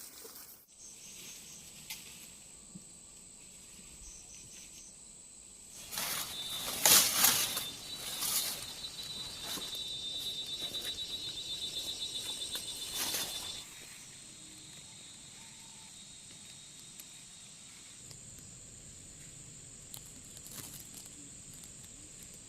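Insects trilling, a rapid pulsing buzz that stops about 13 seconds in, over a faint steady high-pitched insect whine, with a short burst of rustling about 6 seconds in.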